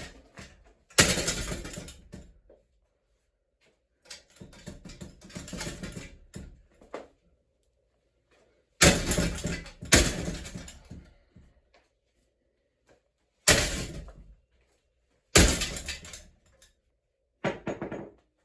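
A ceiling fan being smashed apart: six hard, crashing blows with short ringing tails, spread irregularly, and a quieter stretch of rattling and scraping between the first two.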